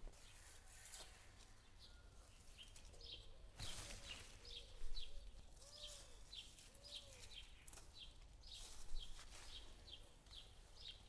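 Small songbirds calling, one repeating a short high chirp two or three times a second, with a few lower swooping notes mixed in.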